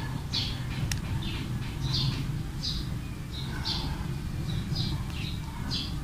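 Small birds chirping, short high chirps repeating about twice a second, over a steady low background rumble, with one sharp click about a second in.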